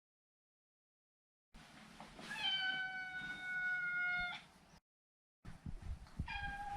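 Maine Coon cat meowing: one long, drawn-out meow of about two seconds that falls slightly in pitch, then a second meow beginning near the end.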